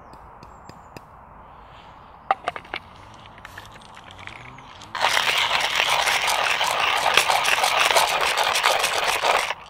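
Hand coffee grinder crunching beans as it is cranked, starting suddenly about five seconds in and stopping just before the end. A few sharp clicks come a couple of seconds before it.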